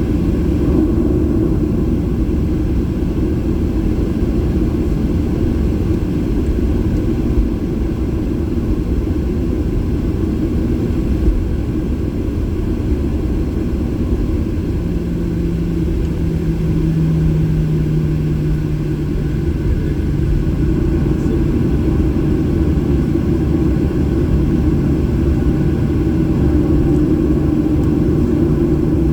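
Steady low rumble inside the cabin of a Boeing 737-800 with its CFM56 engines running. About halfway through, a steady low hum comes in and stays, dipping slightly in pitch.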